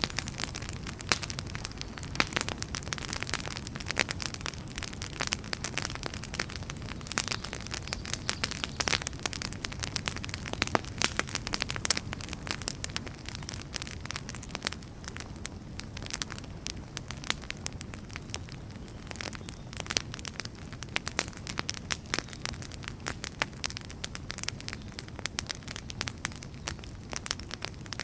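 Wood fire crackling: many sharp pops and snaps over a low, steady rumble of the burning logs.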